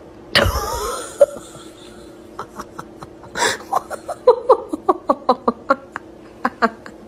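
A person laughing in a run of short, quick bursts, after a sudden loud sound about half a second in whose pitch falls away over about a second.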